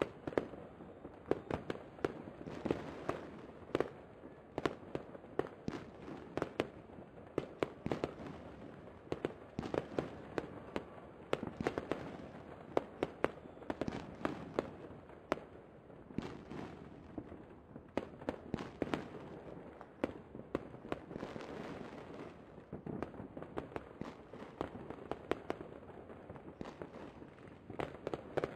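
Aerial fireworks shells bursting in a display: an irregular run of sharp pops and bangs, often several a second, over a low rumbling wash.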